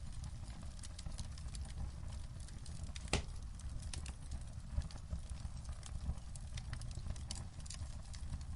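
Wood fire crackling in a fireplace: a steady low rumble with scattered small pops and one sharp, louder crack about three seconds in.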